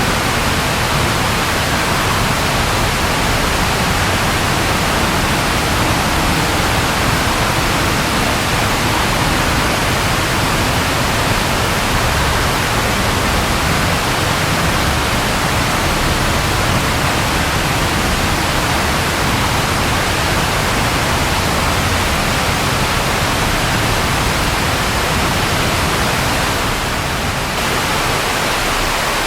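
Steady, dense rainfall: an even hiss with a low rumble underneath, dipping slightly for a moment near the end.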